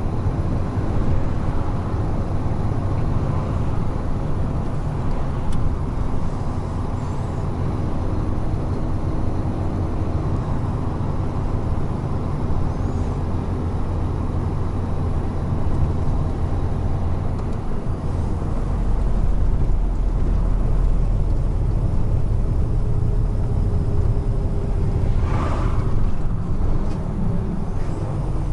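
Large truck's diesel engine and tyre noise heard from inside the cab at highway speed, a steady low drone. The low rumble grows louder about two-thirds of the way through, and a short hiss of air comes near the end.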